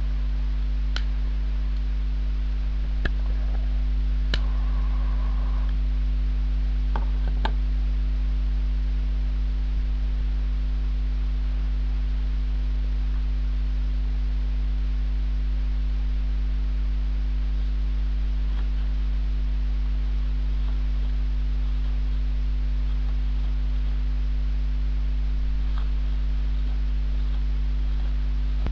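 Steady electrical mains hum throughout, with a few sharp clicks and taps in the first eight seconds.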